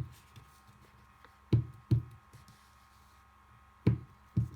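Soft, low knocks of small objects against a tabletop: one at the start, then two pairs, the knocks in each pair about half a second apart.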